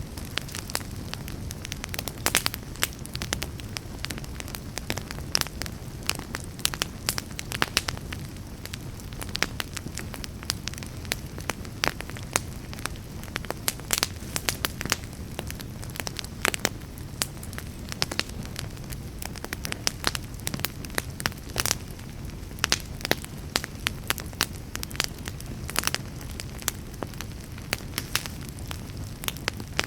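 Fire burning in a fireplace, crackling and popping irregularly, several sharp pops a second, over a steady low rumble of the flames.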